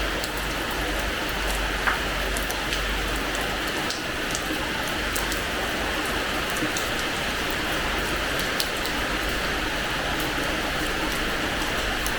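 Steady rain falling on a terrace floor, a dense even hiss with many individual drops ticking and splashing on the hard surface.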